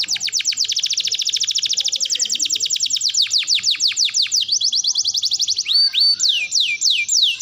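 Domestic canary singing a fast trill of rapid downward-sweeping notes that slows into longer falling sweeps. About four seconds in the song switches to short rising notes, then a couple of brief held whistles and a few falling slurs near the end.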